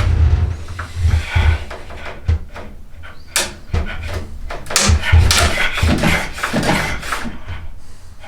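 Hand tools working wood: a series of irregular scraping strokes mixed with sharp knocks and clicks.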